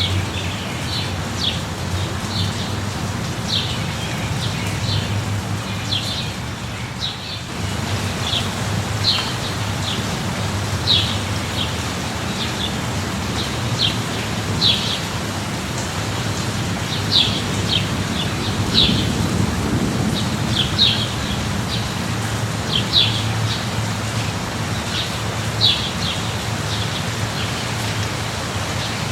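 Steady light rain falling, with a bird giving short, high chirps every second or so over a low, steady rumble.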